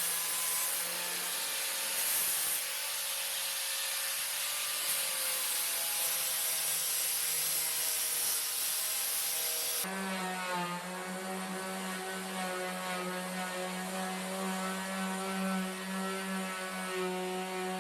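Angle grinder fitted with a sanding disc running steadily and grinding against wooden deck boards. It gives a constant motor hum with a gritty rubbing noise above it. About ten seconds in the sound changes abruptly and the hum becomes stronger.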